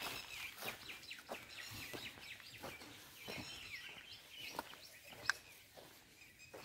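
Small birds chirping faintly, a quick run of short twittering calls that thins out after the first few seconds, with a few soft taps scattered among them.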